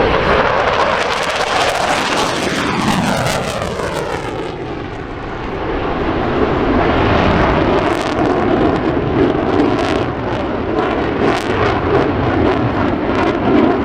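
F-15 Eagle fighter jet making a high-speed low pass, its engines loud throughout. As it goes by there are sweeping tones that fall in pitch, and after it passes comes a rough, crackling jet rumble.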